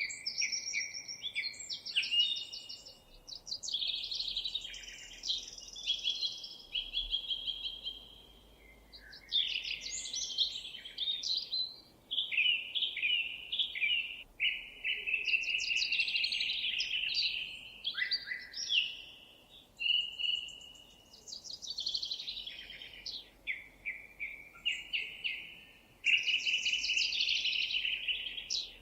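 Songbirds singing: a near-continuous run of quick, varied phrases of chirps and rapid trills, with short pauses between phrases.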